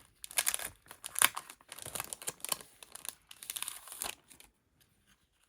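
A new, sealed plastic packet of stick-on jewels crinkling and tearing as it is worked open by hand, in quick rustles and crackles that stop about four seconds in.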